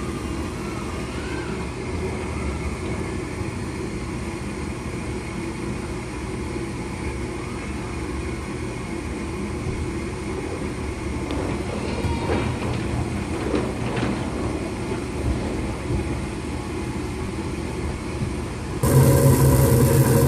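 Gas furnace going through its start-up: a steady motor hum with a few faint clicks in the middle, then a sudden step up to a much louder rush and strong hum near the end. The furnace has a fault that makes it shut off once the flame lights.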